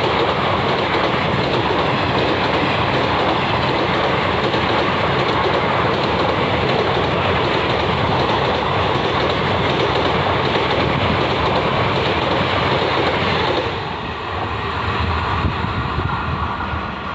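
Express train's passenger coaches running past at speed, a steady loud rush of wheels on the rails. About fourteen seconds in, the last coach passes and the sound drops away.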